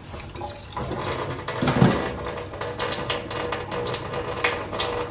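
Water running from a tap being undone with a spanner, with sharp metal clicks of the spanner working on the tap fitting.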